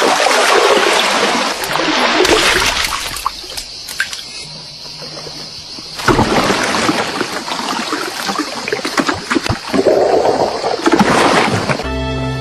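Water splashing and trickling, easing off for a couple of seconds and growing loud again about halfway through.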